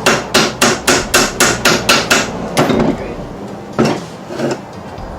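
Hammer blows driving a new U-joint bearing cup into the yoke of a Dodge Durango front driveshaft. There is a quick, even run of about ten strikes at roughly four a second, then three slower, separate blows.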